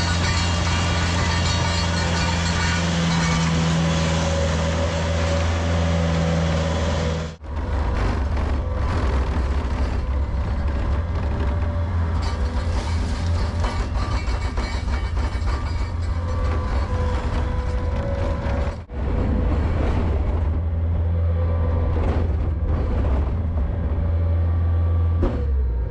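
Bobcat skid-steer loader's engine running steadily, with knocks and rattles from the machine working. The sound cuts out sharply for a moment twice.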